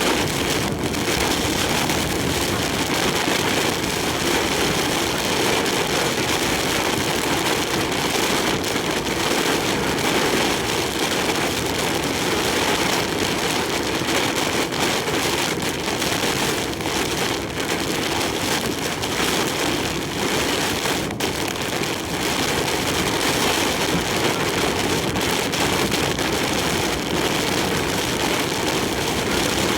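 Heavy typhoon rain and wind beating on a large truck as it drives on the highway: a steady, dense rush of rain and wind noise, with the truck's running and road noise mixed in.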